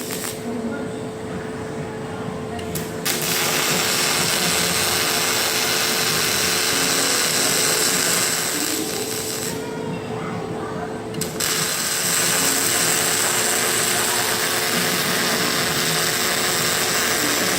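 Robotic welding on stainless steel: a steady arc hiss that stops twice, for about the first three seconds and again for nearly two seconds near the middle, over a constant machine hum and a rattling mechanical texture.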